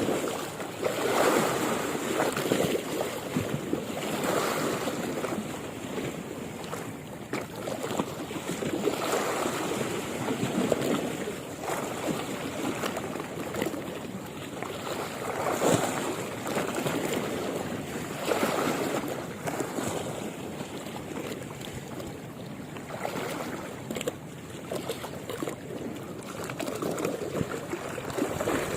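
Sea waves washing and surging, swelling and easing every few seconds.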